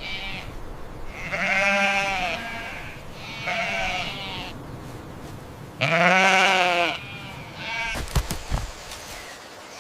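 A farm animal bleating: three long, quavering bleats, the third the loudest, and a short fourth call, followed by a few knocks near the end.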